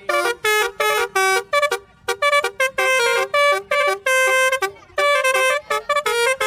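Basuri telolet bus horn playing a quick tune: a run of short, loud horn notes that jump between pitches with brief gaps between them.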